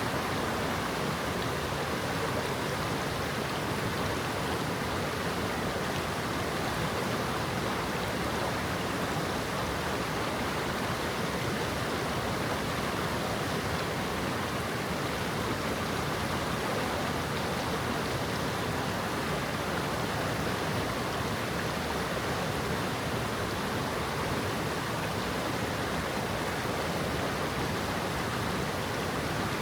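Forest stream babbling over stones: a steady, even rush of flowing water.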